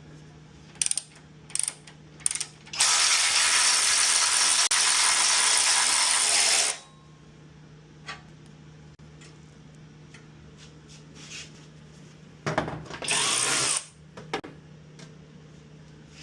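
Ratchet wrench backing out the bolt that holds the engine to the engine stand: a few single clicks, then about four seconds of continuous ratcheting, and another shorter run of ratcheting a little over a second long near the end.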